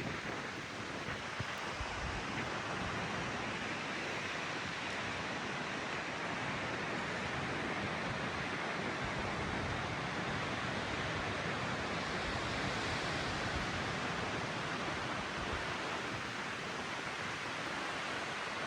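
Strong windstorm wind: a steady, even rushing hiss with no let-up.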